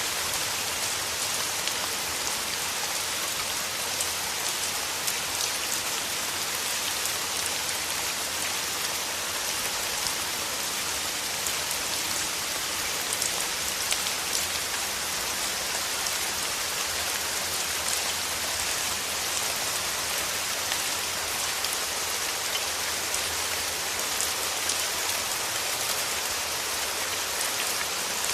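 Steady rain falling through forest trees, an even hiss of many drops pattering on leaves.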